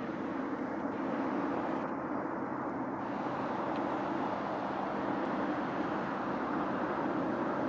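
Steady, unbroken outdoor background noise with a faint low hum and no bird calls, like distant traffic or wind.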